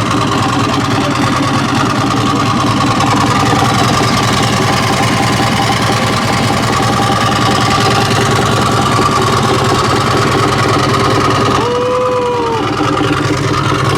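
Motorcycle engine idling steadily. About two seconds before the end there is a brief tone that rises and then falls.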